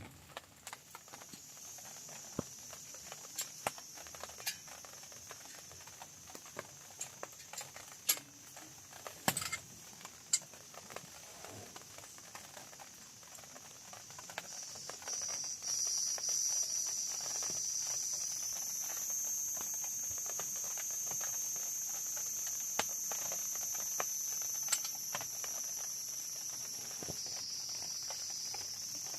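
Insects chirring in a steady, high-pitched drone that grows louder about halfway through, with scattered light taps and drips.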